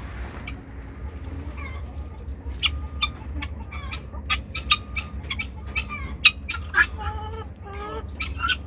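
Chickens clucking: scattered short clucks and sharp clicks, with a run of quick repeated calls in the second half.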